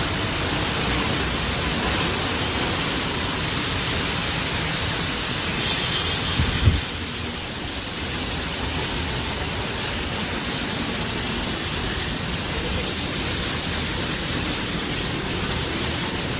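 Heavy rain pouring down in a storm, a steady loud rush of noise with strong wind. A brief low thump comes about six and a half seconds in.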